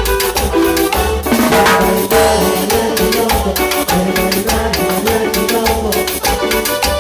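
Band playing cumbia: a steady drum and percussion rhythm over low bass notes and held melody notes.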